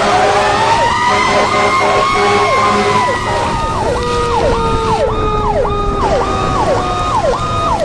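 Emergency vehicle sirens sounding together: a slow wail rising and then falling in pitch, over a faster siren cycling up and down about twice a second, with a steady low rumble underneath.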